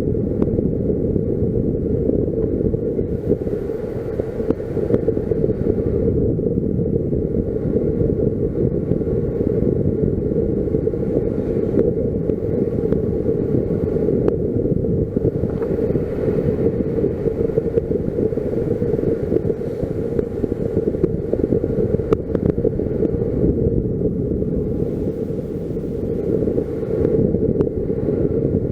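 Steady motor drone holding one pitch, mixed with wind rushing over the microphone, heard in flight under a paraglider.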